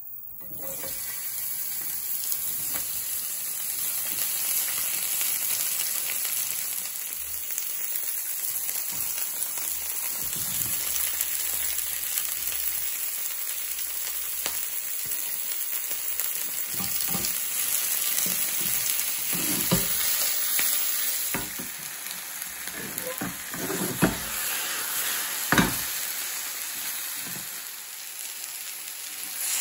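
Courgette and red pepper strips sizzling steadily in a frying pan on a gas hob. In the second half there are scattered short knocks and taps, two sharper ones near the end.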